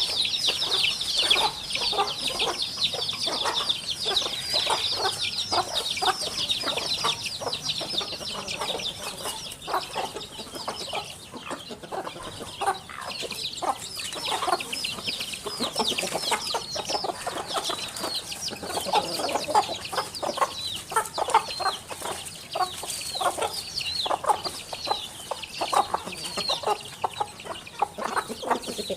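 Chickens clucking over and over, with many quick high chirps of small birds running through the whole stretch.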